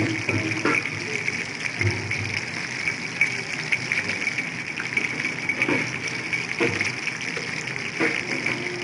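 Chicken lollipops deep-frying in hot oil: a steady sizzle with crackling, broken by a few louder pops.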